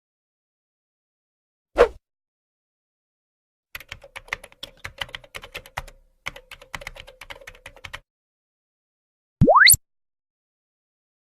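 A short sequence of separate sound effects: a brief low thud about two seconds in, then computer keyboard typing, rapid key clicks for about four seconds with a short break in the middle, and near the end a quick whistle-like sound sweeping sharply upward in pitch.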